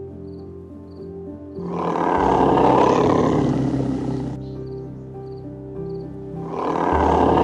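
Background music with a light ticking beat, overlaid by an animal's loud rough roar twice, about five seconds apart: the first starts under two seconds in and lasts nearly three seconds, the second comes in near the end.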